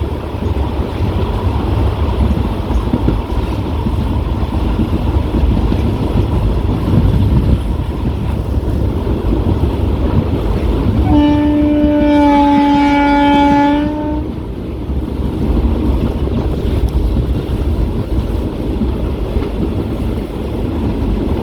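Passenger train running, heard from on board, with a steady rumble of wheels on track. About eleven seconds in, the locomotive horn sounds one steady blast lasting about three seconds.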